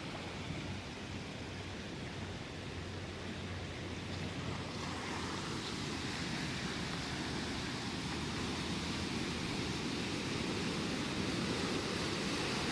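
Floodwater rushing and swirling into a submerged culvert entrance, a steady rushing noise that turns brighter and a little louder about five seconds in.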